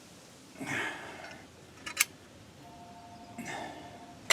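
A short scrape, then a sharp click about two seconds in, and a faint steady two-tone phone ring lasting under a second.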